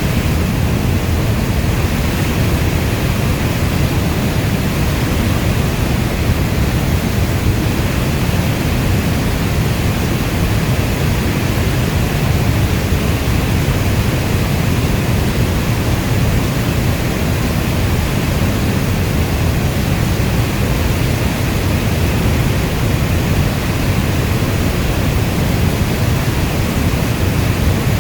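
Steady heavy rainfall: a dense, unbroken hiss of rain, weighted toward a deep low rumble, with no separate drops or thunderclaps standing out.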